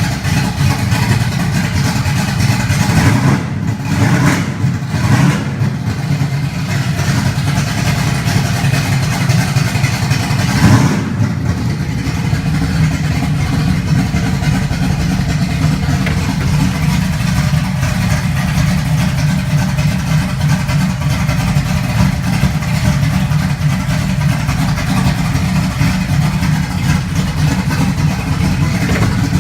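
1974 Dodge Challenger's V8 engine running, blipped a few times in the first dozen seconds and then settling into a steady, deep idle.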